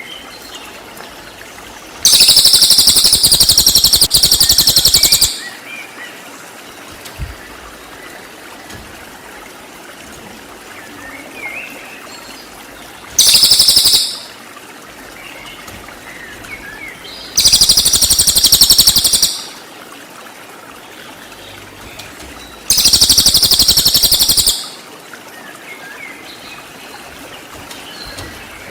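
Cililin songbird giving loud bursts of rapid, very high-pitched trilled 'shots' (tembakan), four in all, lasting one to three seconds each. In the gaps there are faint scattered chirps over a low trickling hiss.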